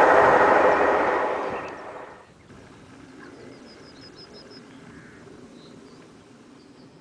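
A passing train's noise dies away over the first two seconds, leaving quiet open-air background. Around the middle a bird gives a quick series of high chirps.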